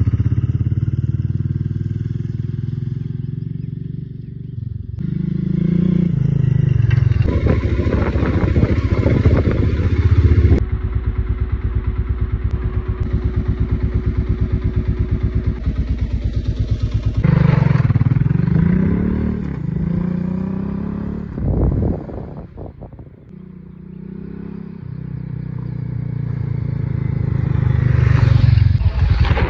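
Honda Africa Twin XRV750's V-twin engine running, its revs rising and falling several times, with a steadier, evenly pulsing stretch in the middle and a short drop near two-thirds of the way through.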